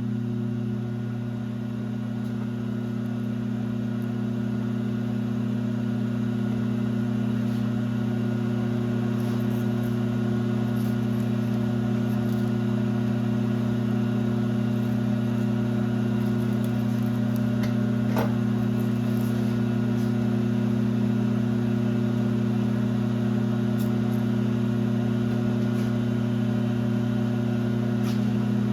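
A 1966 LeBlond geared-head lathe running steadily, with an even machine hum and a few faint ticks.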